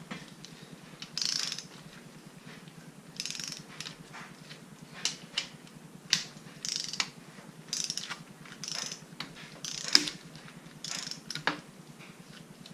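Ratcheting torque wrench tightening bolts in short bursts of ratchet strokes, about one burst a second, with several sharp clicks, the loudest about ten seconds in.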